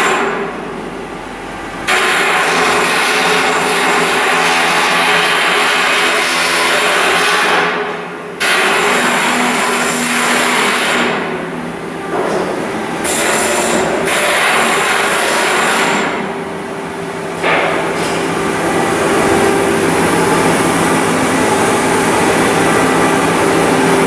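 Power tool running in long loud hissing stretches that stop and restart several times, over a steady machine hum.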